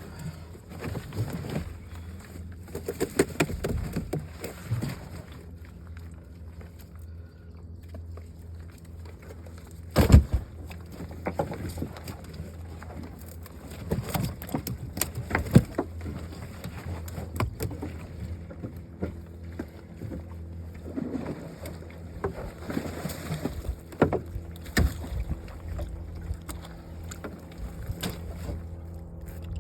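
Steady low hum of an idling boat motor under irregular knocks and clatters in an aluminium work boat, with one heavy thump about ten seconds in.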